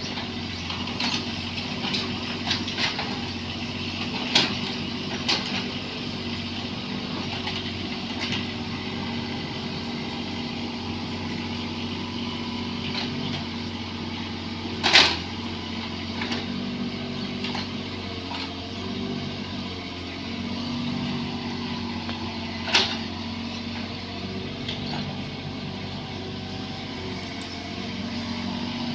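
Bobcat 322 mini excavator's diesel engine running steadily, with sharp knocks now and then, the loudest about halfway through and another about three-quarters through.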